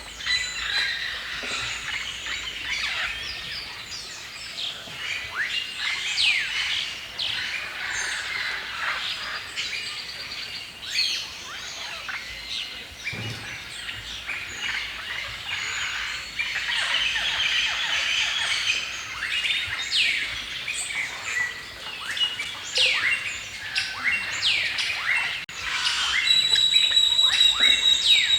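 A chorus of many songbirds chirping and singing at once, with quick overlapping calls and whistled notes. Near the end one bird repeats a steady high whistle.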